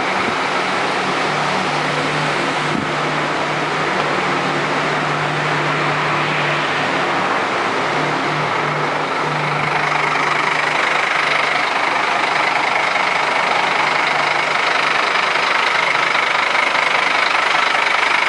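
A vehicle engine idling steadily, a constant low hum under a wide even noise.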